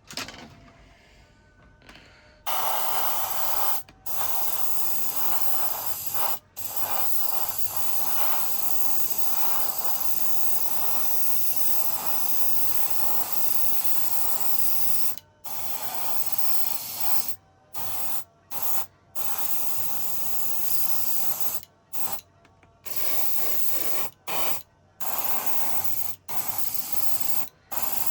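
Paint being sprayed onto a small model part: a steady hiss that starts about two and a half seconds in and is stopped and restarted many times in short bursts.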